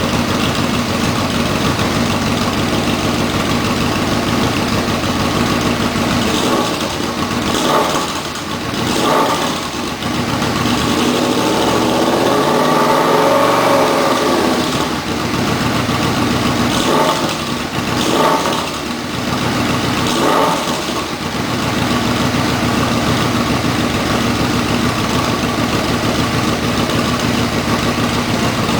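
2007 Yamaha Royal Star Tour Deluxe's V4 engine running through American Custom bomber exhaust pipes fitted with mid-tone baffles. It idles steadily, takes a string of short throttle blips in the middle, including one longer rev that rises and falls, then settles back to idle.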